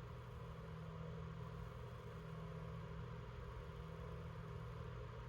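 Heater running with a steady low hum.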